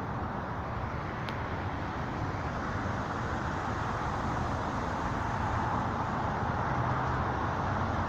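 Steady outdoor background rumble and hiss, swelling slightly in the second half, with one faint tick about a second in.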